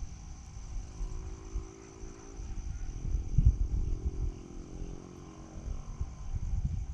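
A distant engine hum passes, dropping in pitch about halfway through, over gusty low rumble on the microphone and a steady high whine.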